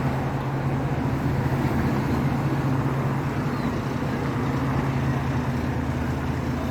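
Steady low hum of a vehicle's engine and road noise, with an even drone and no distinct events.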